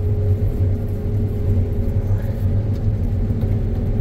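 John Deere X9 combine harvester running in the field, heard from inside its cab as a steady low rumble with a constant hum.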